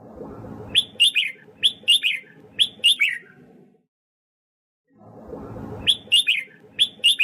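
Red-whiskered bulbul singing: two phrases of quick, sharp, falling whistled notes, one about a second in and another near the end, over a low background rumble.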